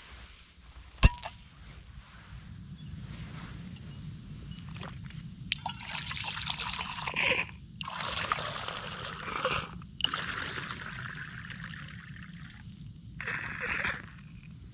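Tea being poured in four short spells, after a single sharp click about a second in.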